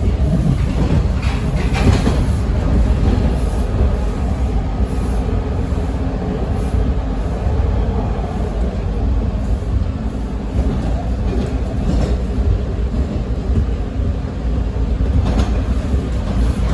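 Interior of a Toronto TTC Bombardier T1 subway car running along the track, with a steady low rumble. A few sharp clicks from the wheels come about 1 to 2 seconds in and again near the end.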